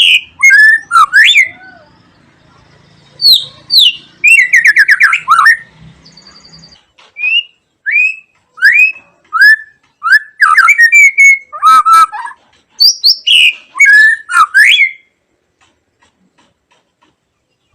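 White-rumped shama (murai batu) singing: phrases of loud whistled notes that slide up and down, mixed with quick chirps, separated by short pauses. The song stops about three seconds before the end.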